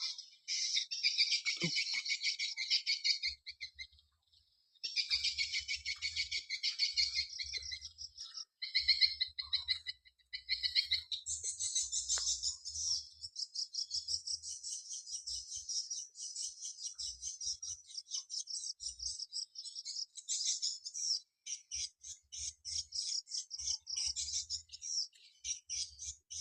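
Small birds chirping and twittering rapidly and almost without a break, high-pitched, with a short pause about four seconds in.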